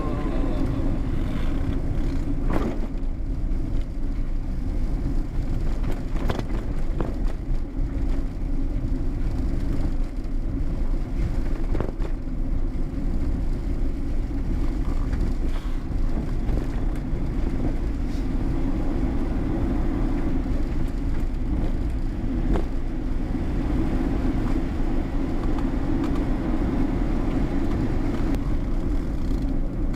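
Steady engine and road rumble of a vehicle being driven, with a few brief knocks.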